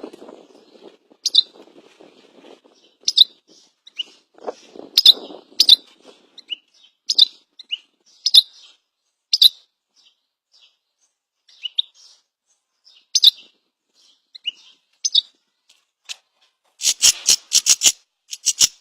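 A pet talking bird chirping in short high calls, one or two a second, with a quick run of rattling clicks near the end.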